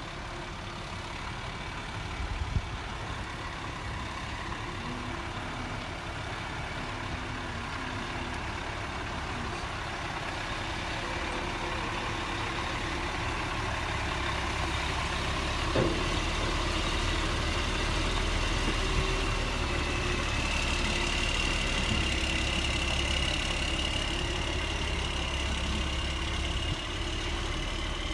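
Truck engine idling and running, growing louder about halfway through, with a thin high whine in the second half and a single clank.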